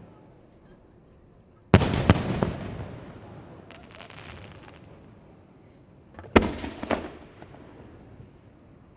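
Fireworks bursting overhead: a sharp bang about two seconds in, followed by a couple of cracks and a rumbling echo that dies away. A faint crackle follows, then a second bang with another crack about four and a half seconds later.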